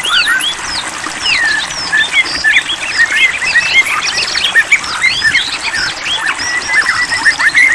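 White-rumped shama (murai batu) singing a fast, varied run of clear whistles and chirps, ending in a rapid trill.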